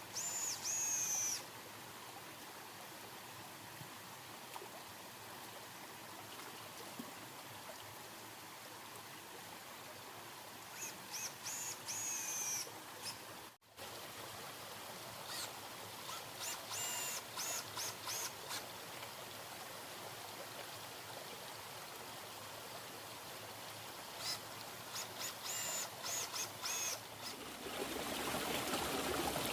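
Forest ambience: water running steadily, with a bird calling in short clusters of high whistled notes four times. A brief dropout comes near the middle, and the rushing water grows louder near the end.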